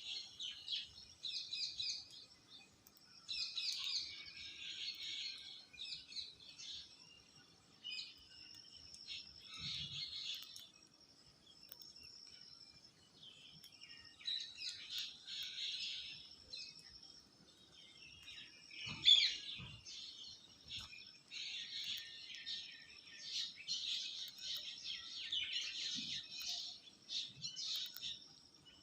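Parrot chirping in repeated bouts of high, rapid calls with short pauses between them. A single sharp knock sounds about two-thirds of the way through.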